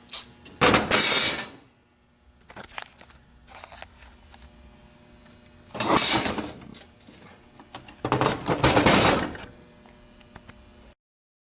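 Three rattling, clattering bursts, each about a second long, with scattered clicks between them: the broken 5R110W transmission front pump and its parts being handled.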